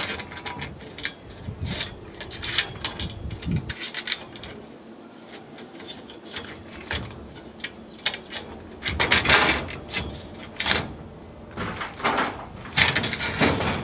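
Intermittent clicks, knocks and scraping from solar racking hardware and tools being handled, with a longer rasping scrape about nine seconds in and another near the end.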